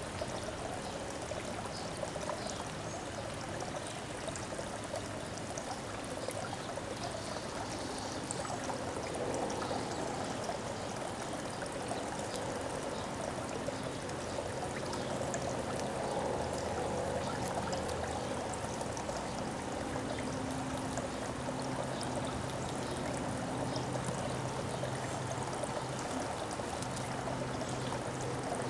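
Steady running or trickling water, with a faint low hum that comes and goes in the second half.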